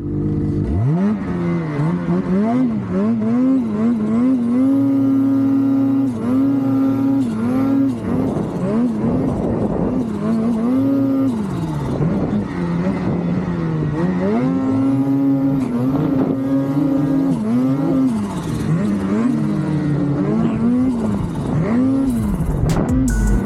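Ski-Doo snowmobile engine running hard under a constantly changing throttle, its pitch rising and falling every second or two as the rider works the sled.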